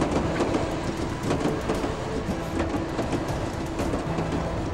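Train running on the rails: a steady rumble with scattered clicks and clatter from the wheels.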